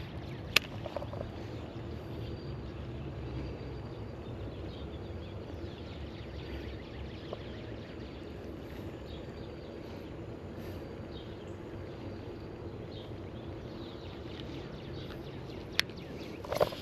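Steady outdoor background noise with a faint hum, broken by two sharp clicks, one about half a second in and one near the end.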